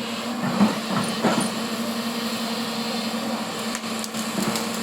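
Excavator's diesel engine running steadily, with a few short knocks and clicks toward the end.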